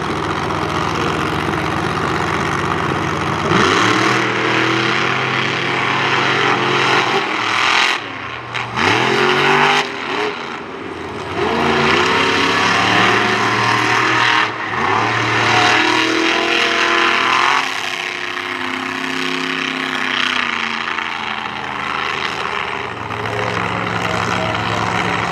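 Monster truck engine revving hard in repeated surges, its pitch climbing and dropping several times over a steady engine rumble.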